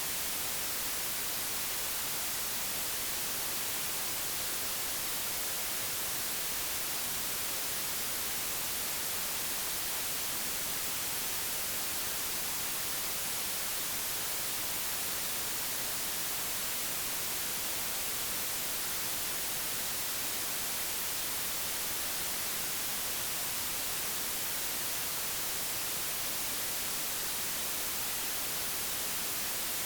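Steady, unchanging digitally generated white noise: an even hiss with no other sound.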